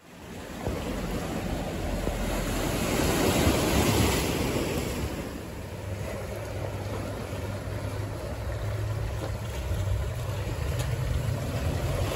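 Wind buffeting the microphone over the steady wash of waves, with a heavy low rumble and a swell in loudness about four seconds in.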